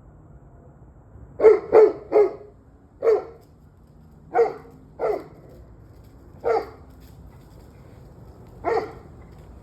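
A dog barking: a quick run of three barks, then five more single barks at irregular gaps of a second or two.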